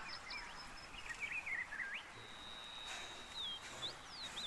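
Small birds calling outdoors: a wavering, warbled phrase about a second in, then a thin held whistle, then a few short sliding notes, over faint background hiss.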